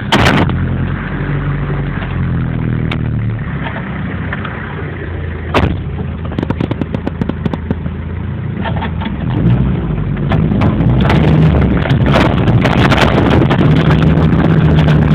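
A vehicle engine running and revving under load as it works through sand, its pitch shifting. There is a sharp knock about five and a half seconds in, then a run of rapid rattling clicks, and a louder, rougher stretch with wind on the microphone toward the end.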